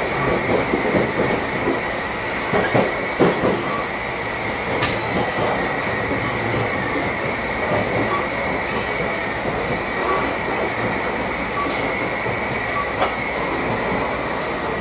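Kyushu Shinkansen 800-series train running along the line, heard from the vestibule deck: a steady rumble of wheels on rail with a steady high whine over it. A couple of sharp clicks come through, about five seconds in and near the end.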